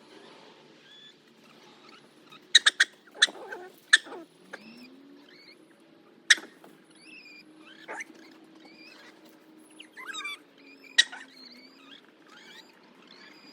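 Chicks cheeping in short, high chirps, with several sharp knocks and clatter from things being moved, the knocks the loudest sounds. A faint low hum rises and then holds steady through the middle.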